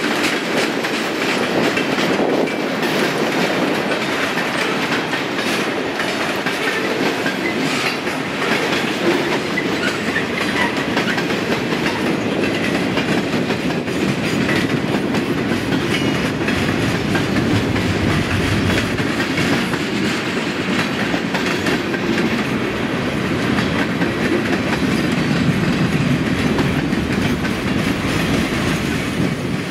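Freight train cars (boxcars, tank cars and covered hoppers) rolling past close by: a steady rumble of steel wheels on rail with repeated clicks of the wheels.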